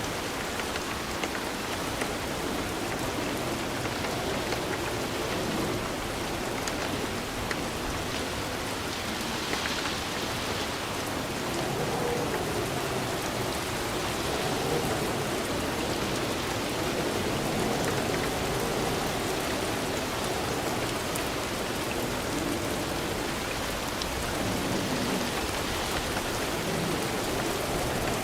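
Steady rain falling, a continuous even hiss of drops on a surface.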